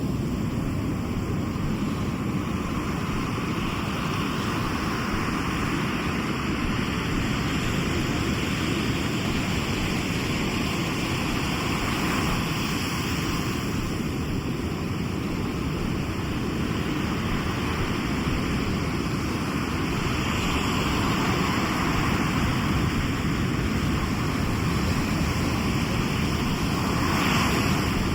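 Sea surf: waves breaking and washing ashore in a steady rushing wash over a low rumble, swelling louder a few times as a wave comes in, most strongly near the end.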